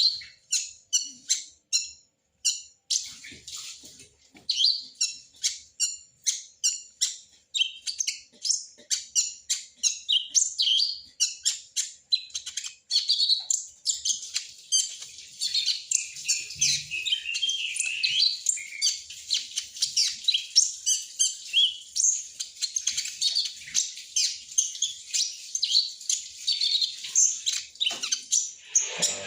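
Olive-backed sunbird (kolibri ninja) calling: sharp, high chirps one to two a second, turning about halfway through into fast, continuous twittering, the chattering 'ngriwik' call.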